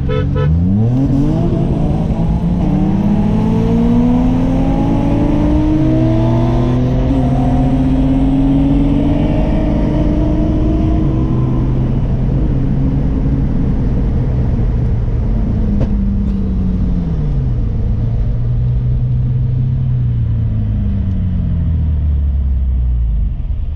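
Acura TL Type-S's J-series V6 with an aftermarket J-pipe and exhaust, heard from inside the cabin, pulling hard from a roll with the revs climbing. About six seconds in the revs drop sharply at an upshift, and they climb again until about halfway. Then the driver lifts off and the revs fall away in steps as the car slows.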